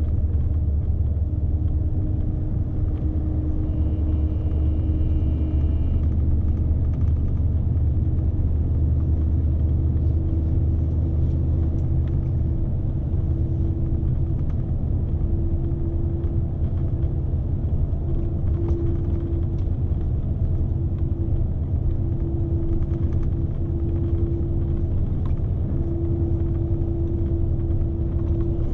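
Scania S520 truck's V8 diesel engine pulling a heavy load, heard from inside the cab: a steady low drone with road rumble, the engine note rising a little about halfway through. A brief faint high tone sounds about four seconds in.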